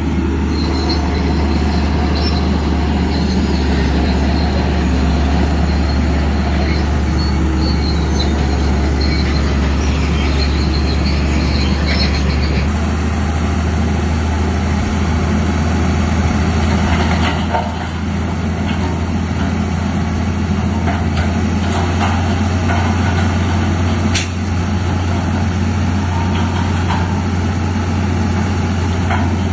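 Heavy diesel engine of a Shantui crawler bulldozer running steadily, with squealing and clanking from its steel tracks.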